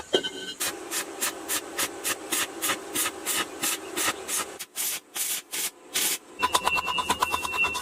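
Hand sanding strokes rubbing back and forth on a part, about four a second. The strokes slow midway, then a quicker run near the end carries a faint high ringing tone.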